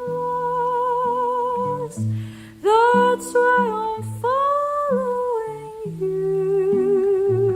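A woman humming a wordless melody in long held notes with a wavering vibrato, over acoustic guitar picking a moving bass line.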